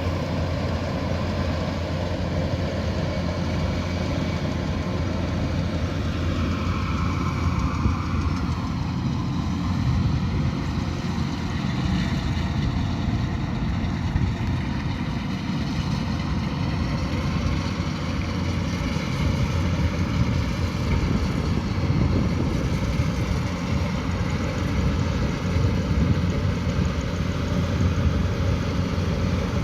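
Kubota DC108X combine harvester running steadily in the field: its engine and machinery hum with a constant low drone, and faint tones above it drift slowly up and down in pitch.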